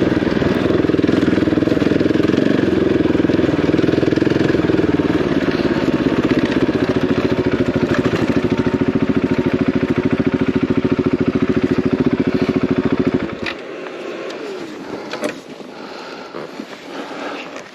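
Single-cylinder dual-sport motorcycle engine running, settling into an even idle after about six seconds, then cut off abruptly about thirteen seconds in. Quieter scattered sounds and a few clicks follow.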